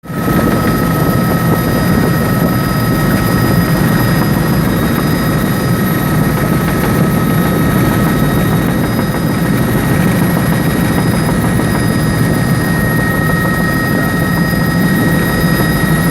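Helicopter engine and rotor running steadily, a loud even rumble with several high steady whining tones above it.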